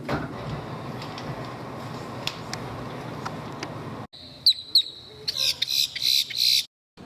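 A steady noisy background, then, after about four seconds, loud bird screeches: two short sharp cries and then a rapid run of shrieks that cuts off abruptly.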